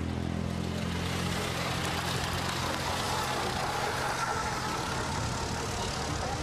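Vintage and classic car engines running at low speed as the cars drive off one after another. A low, steady engine note fades over the first two to three seconds, leaving a more even hum of engines.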